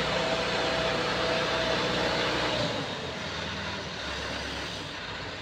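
Heavy machinery running with a steady low hum and hiss, its note dropping and getting quieter about two and a half seconds in.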